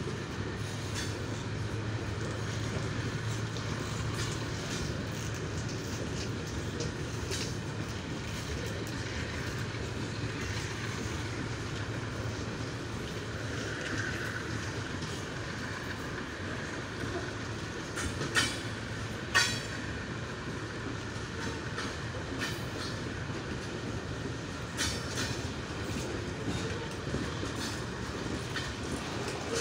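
A long train of covered freight wagons rolling past: a steady rumble with the clickety-clack of wheels over rail joints. Just past the middle come two loud, sharp ringing knocks about a second apart.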